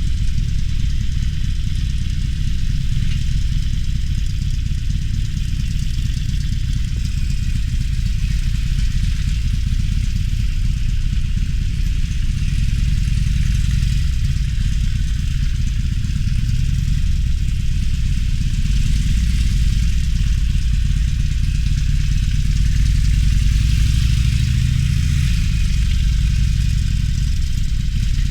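Harley-Davidson Roadster's air-cooled V-twin engine running steadily, with a deep, low exhaust note that swells somewhat in the second half.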